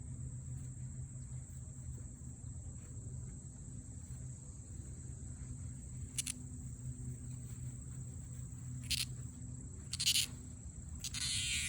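Cicadas droning, a continuous high-pitched buzz, over a low steady hum. A few brief sharp sounds break in about 6, 9 and 10 seconds in, and a louder, harsher call starts near the end.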